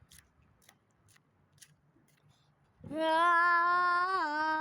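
A person's voice holding one long sung "ahh" note at a steady pitch, starting about three seconds in, after a few faint scattered clicks.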